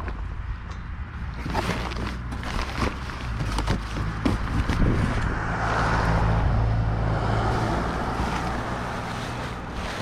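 Wind rumbling on the phone microphone, with scattered clicks and knocks of plastic DVD cases being handled and sorted. A broad rushing noise swells in the middle and fades again.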